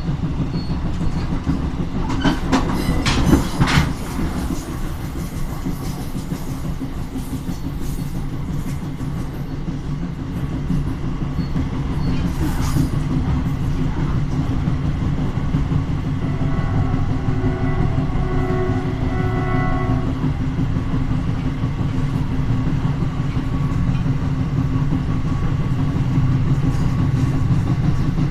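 A passenger train hauled by an SNCFT 040-GT diesel locomotive running along the line with a steady rumble. Bursts of clicking from the wheels over rail joints come a couple of seconds in and again around the middle. A steady chord-like tone sounds for about three seconds past the middle.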